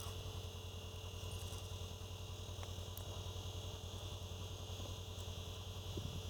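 Steady mechanical hum: a low, evenly pulsing drone with a high-pitched whine above it, unchanging throughout.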